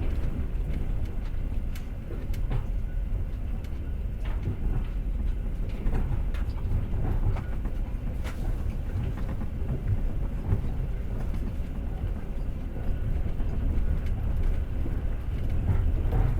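Passenger train carriage running on rails: a steady low rumble of the wheels, with irregular knocks and clacks from the wheels and couplings every second or two.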